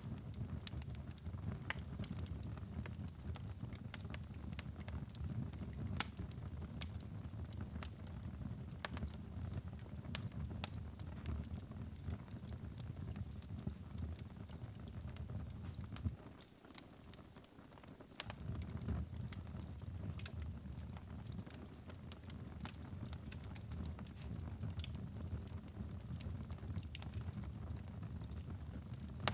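Wood fire burning in a fireplace, crackling and popping irregularly over a steady low rumble of flames. The rumble drops away for about two seconds around the middle, while the crackles carry on.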